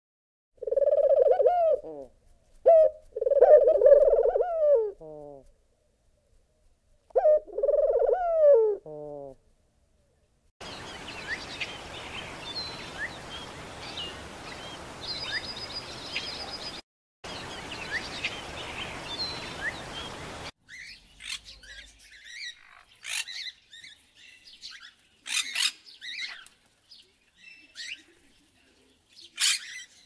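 Helmeted guineafowl calling in three bouts of loud, pitched calls. Then bird chirps scattered over a steady hiss, and near the end sharp, harsh squawks from blue-and-yellow macaws.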